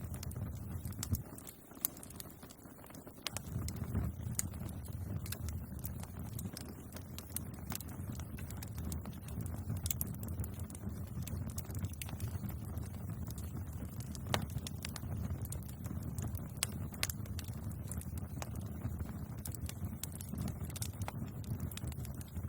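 Wood bonfire crackling, with irregular sharp pops and snaps over a low steady rumble of burning. The rumble dips briefly about two seconds in.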